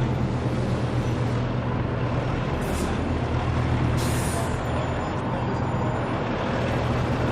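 Heavy rally trucks' diesel engines running with a steady low drone. Two short air-brake hisses come about two and a half and four seconds in.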